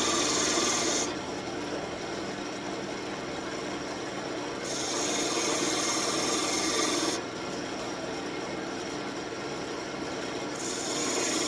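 Wood lathe running while a turning tool cuts the spinning birch in passes: a hissing, scraping cut stops about a second in, comes back for a couple of seconds in the middle, and starts again near the end, with the lathe's steady running noise in between.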